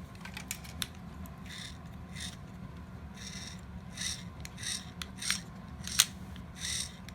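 Plastic parts of a toy robot's disc shooter mechanism being handled and worked by hand: a series of short rasping strokes and scattered clicks, with one sharp click about six seconds in.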